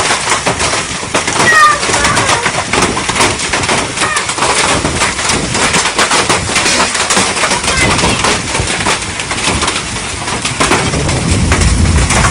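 Hailstones pelting down in a hailstorm: a dense, continuous clatter of many small impacts.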